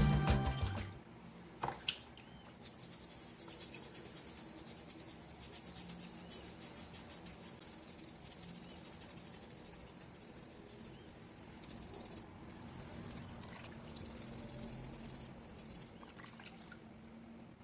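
Background music fading out, then quick rhythmic scrubbing strokes on the small parts of a diecast scale model car being cleaned. The strokes ease into lighter, irregular rubbing later on.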